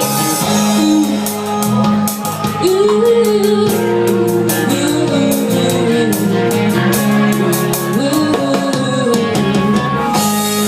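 Live rock band playing loud: drum kit with cymbals, held chords underneath, and a wavering lead melody line over them.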